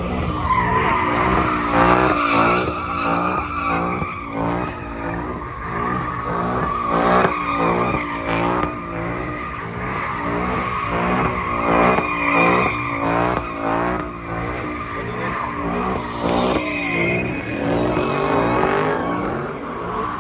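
A car doing donuts with its tyres squealing without pause, while the engine's revs rise and fall about twice a second as the driver works the throttle.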